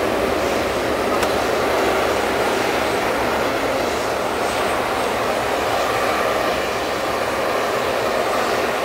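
Steady roar of a Boeing 777-200's twin jet engines, an even rushing noise without distinct beats.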